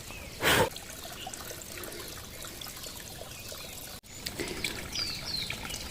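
A small mountain stream trickling and splashing over rocks. About half a second in there is a short loud rush of noise.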